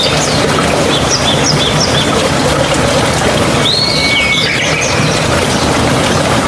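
Steady rushing of a mountain stream, with small birds chirping over it: a quick run of short high chirps about a second in and another call around four seconds in.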